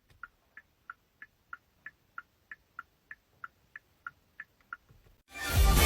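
A steady run of about fifteen short, high chirps or ticks, about three a second, with quiet between them. Music starts abruptly near the end.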